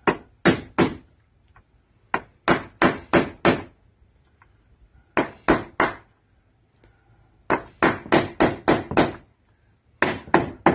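Hammer striking a steel nail set to sink trim nail heads below the surface of a wooden window casing. The blows come in quick runs of three to seven with short pauses between, each with a brief metallic ring.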